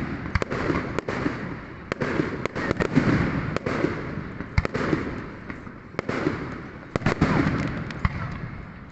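Many fireworks going off at once: a dense, continuous rumble of overlapping booms with frequent sharp cracks at irregular intervals, some close and some far away.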